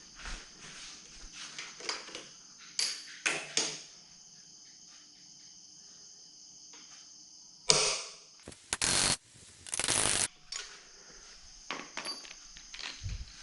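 Workshop work noises: scattered small clicks, then one sharp knock followed by two short bursts, each about half a second, of a small electric drill running.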